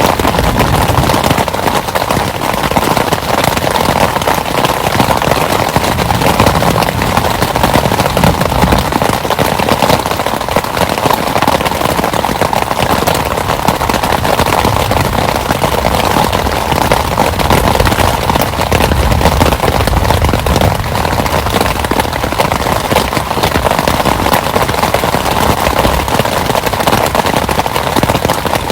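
Heavy rain falling, a dense, steady crackle of drops striking a surface.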